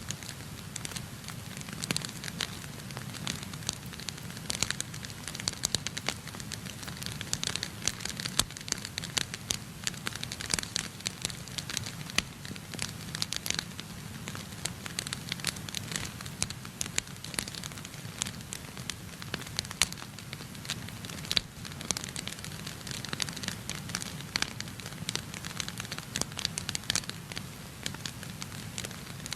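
Wood fire burning in a fireplace: dense, irregular crackling and popping of the burning logs over a steady low rumble of the flames.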